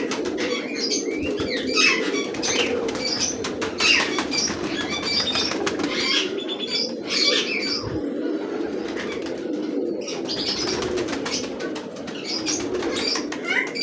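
Peshawari Khal pigeons flapping their wings and cooing, with short high chirping calls on and off that pause briefly about eight seconds in.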